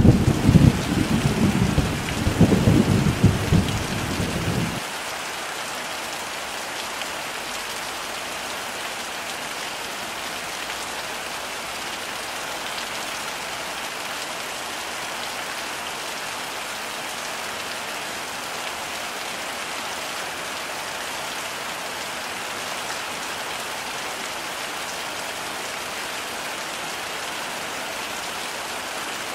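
Heavy rain falling steadily, with a loud low rumble of thunder at the start that cuts off suddenly about five seconds in. After that there is only the even hiss of the downpour.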